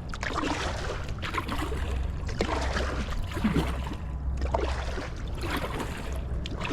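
Canoe paddle strokes in shallow water: repeated splashes and drips about once a second, with small gurgles as the paddle pulls through.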